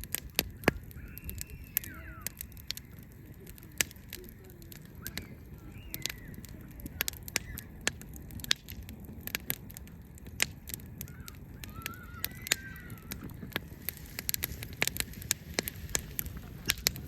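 Wood fire crackling, with many sharp, irregular snaps and pops. A bird calls in short phrases a few times in the background.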